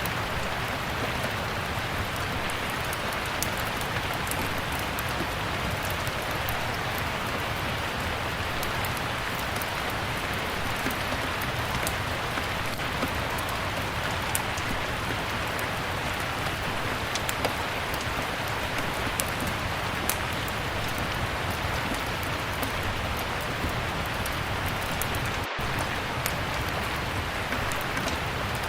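Steady rain mixed with a crackling log fire, its small sharp pops scattered throughout. There is a split-second dropout near the end.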